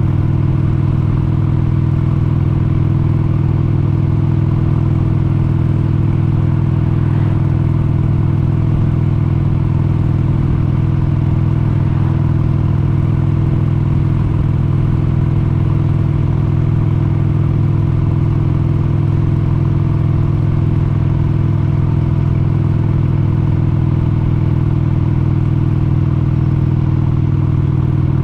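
1996 Harley-Davidson XLH883 Sportster's 883 cc air-cooled V-twin running steadily at a constant cruising speed.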